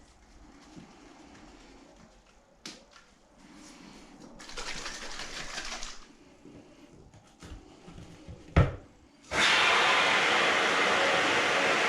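Can of expanding spray foam being shaken and handled: a brief hiss about halfway through, then a sharp knock. Soon after, a loud, steady hiss starts as foam is sprayed through the delivery tube to fill the void under a cracked fibreglass bathtub.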